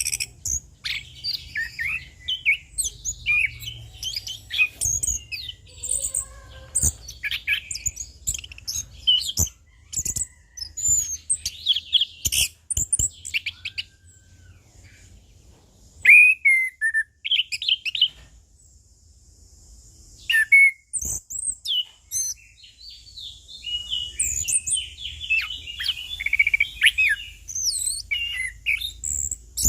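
Orange-headed thrush (anis kembang) singing a long, varied song of quick whistled phrases and trills, with a couple of short lulls about halfway through.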